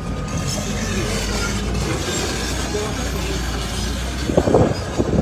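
Heavy demolition machinery running: a steady engine rumble with thin, high metallic squeals, and a couple of louder knocks about four and five seconds in.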